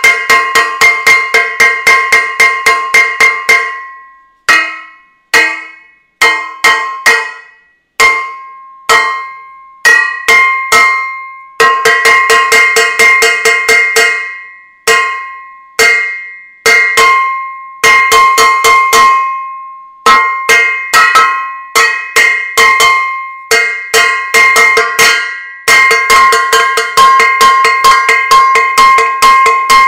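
Metal saucepan banged over and over, each hit ringing on with a clear metallic tone. The strikes come in quick runs of several a second, broken by short pauses.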